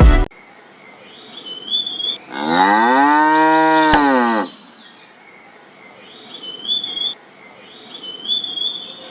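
A cow moos once: one long call, about two seconds, that rises and then falls in pitch. Faint short high chirps repeat around it.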